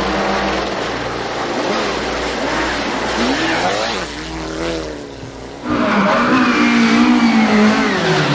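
Rally car engine revving hard, its pitch rising and falling through the gears, with noisy tyre and road sound. About two-thirds of the way in the sound jumps suddenly louder as the car comes close.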